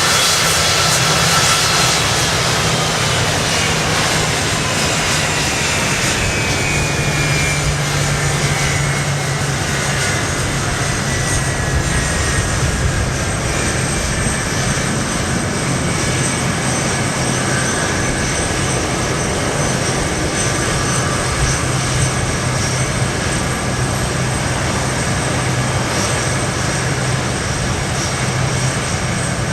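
Boeing C-17 Globemaster III's four Pratt & Whitney F117 turbofan engines running. Their high whine falls in pitch over the first several seconds and then holds steady over a constant rush of jet noise and a low hum.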